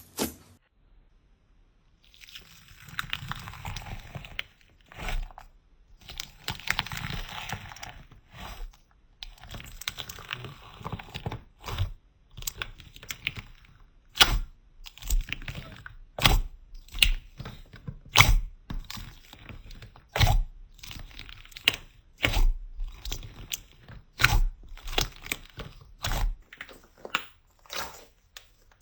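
Slime being worked by hand, close up. After a brief pause it gives a few seconds of crackly, crunching squishing, then a run of separate sharp clicks and pops, one or two a second.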